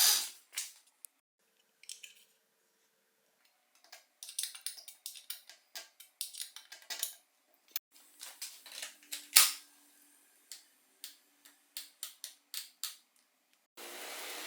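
Irregular runs of light clicks and ticks from bicycle parts being handled and fitted, with one sharper click about nine seconds in. A steady hiss starts near the end.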